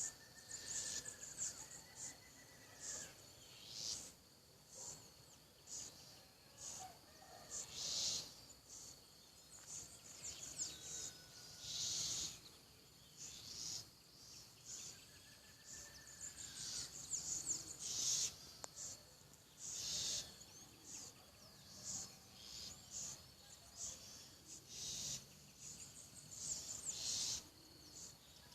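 Southern house wren making a strange noise: repeated short, harsh, hissing high-pitched calls every second or two.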